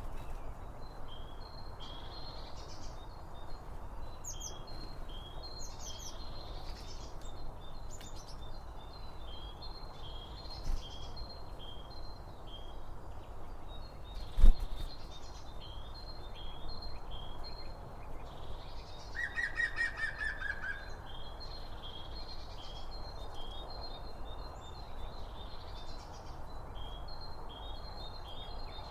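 Songbirds chirping, short repeated calls throughout, with a quick run of falling notes about two-thirds of the way through, over a steady low hiss. One sharp knock about halfway through is the loudest sound.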